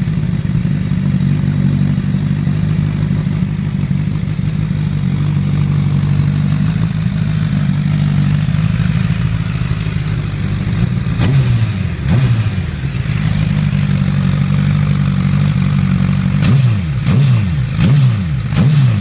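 2008 Honda CBR1000RR Fireblade's inline-four engine running through an aftermarket Taylormade exhaust. It idles steadily, is revved once about eleven seconds in and again a second later, then is given several quick throttle blips near the end.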